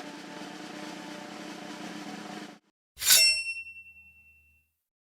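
A steady hum with several pitches cuts off suddenly about halfway through. After a short silence comes a single bright metallic ding that rings on for about a second and a half.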